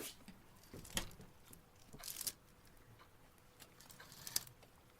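Faint rustling of clothes with a few soft clicks and knocks, from someone rummaging through a closet for something dry to wear.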